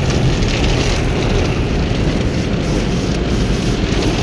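Automatic car wash running, a loud steady rushing noise with no break.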